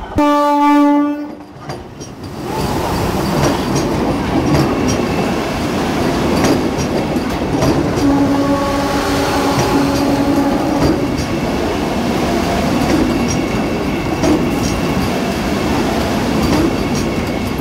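Vande Bharat Express trainset sounding its horn, a blast that ends about a second and a half in. It then runs through the platform at speed: a steady rush of wheels and air, with rapid clicks of the wheels over the rail joints.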